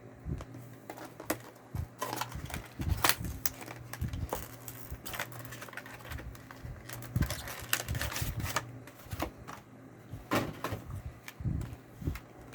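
Handling and opening a trading-card trial deck box and its wrapping: irregular crinkling, clicking and tapping of cardboard, plastic and cards, over a low steady hum.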